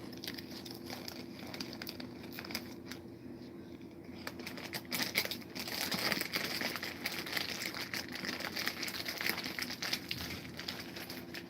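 Crinkling and crackling of a plastic wrapper being handled, busiest in the second half, over a steady low hum.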